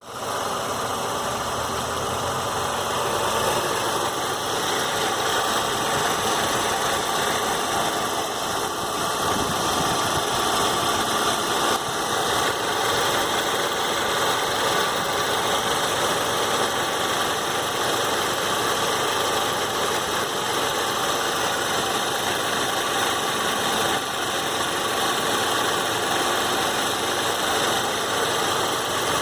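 Saab 9-3 2.0t turbocharged four-cylinder engine, warmed up, running steadily at about 3000 rpm with a clicking sound.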